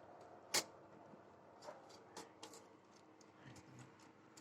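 Quiet room tone broken by a few small, sharp clicks and knocks, the loudest about half a second in and fainter ones scattered after it.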